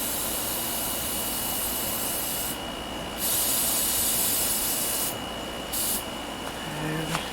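Spray hissing in two long bursts and a short one, cleaning off a spark plug fouled with oil and fuel.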